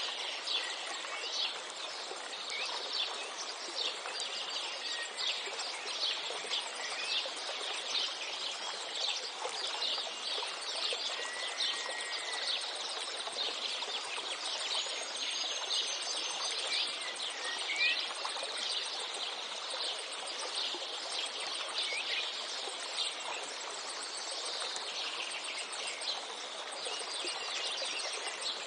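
Many small birds chirping busily and continually over a steady, even hiss, a nature ambience.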